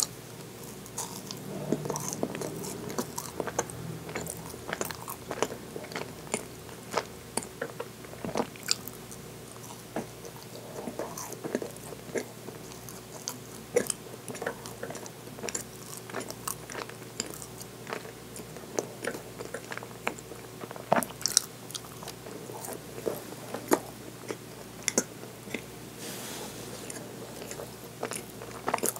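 Close-miked biting and chewing of baked cream cheese tart, with many sharp, irregular crunches and mouth clicks.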